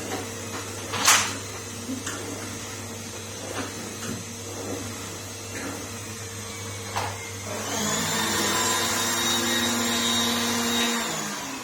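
Numatic Henry vacuum cleaner running on a hard floor, with a few knocks of the floor tool, the loudest about a second in. Its whine rises and grows louder about two-thirds of the way through, then the motor winds down near the end.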